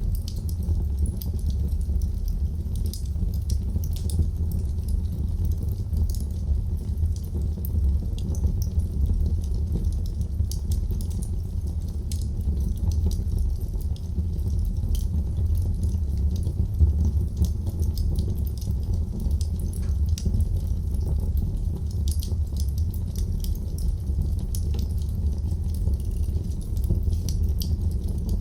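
Wood fire burning in a fireplace: a steady low rumble from the flames under frequent small crackles and pops, with one louder pop a little past halfway.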